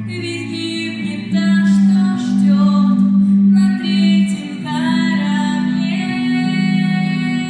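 A woman singing with guitar accompaniment, drawing out long held notes.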